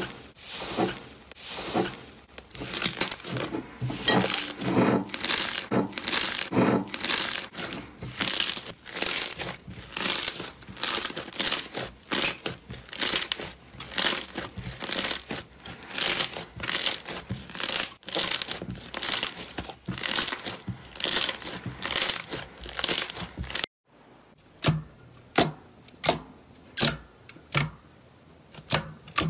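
Slime being squeezed and stretched by hand, crackling and popping in strokes of about two a second. Near the end it cuts abruptly to a different clip with sharper, quicker clicks.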